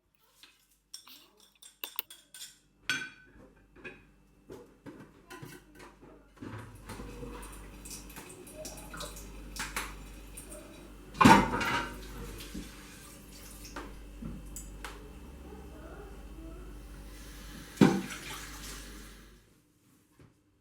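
Dishes and cutlery clinking and knocking during washing-up, with running water starting about six seconds in. Two louder clatters of crockery stand out, one about halfway through and one near the end.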